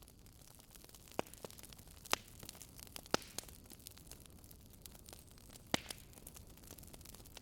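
Fire in a fireplace crackling over a low steady hiss, with a few sharp pops standing out, the loudest about two, three and nearly six seconds in.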